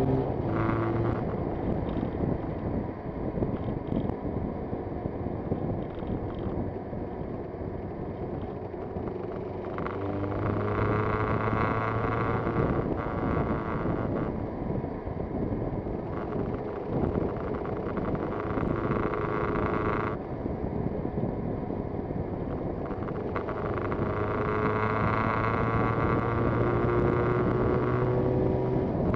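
Yamaha TZR250 two-stroke motorcycle engine running on the road, its pitch rising and falling with throttle and gear changes, with wind noise on the microphone.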